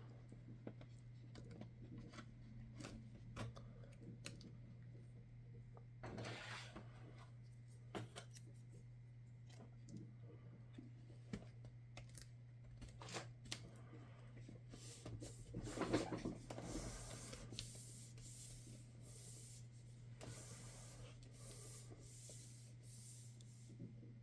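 Faint handling sounds of laptop parts being worked on by hand: scattered light clicks and rubbing, with longer stretches of scraping about a quarter of the way in and again past the middle, over a steady low electrical hum.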